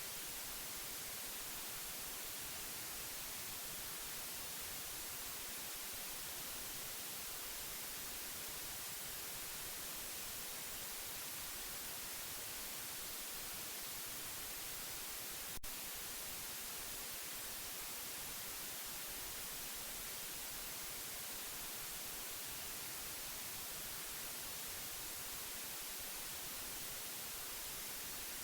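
Steady white noise, an even hiss strongest in the treble, played to soothe a baby to sleep. A single brief click sounds about halfway through.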